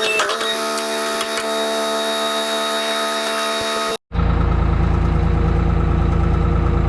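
A busy mechanical whirr with steady tones and small clicks cuts off abruptly about four seconds in. It gives way to a skid steer's engine idling with a steady deep rumble.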